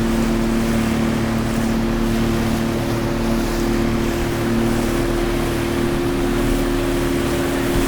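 Motorboat engine running at a steady drone, with a rush of wind and water underneath.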